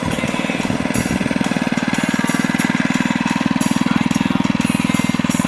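Minibike's small single-cylinder engine running steadily, a rapid even chugging of firing pulses.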